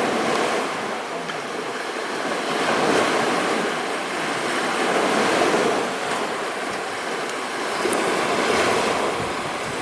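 Small waves washing onto a sandy shore, the surf swelling and fading every few seconds.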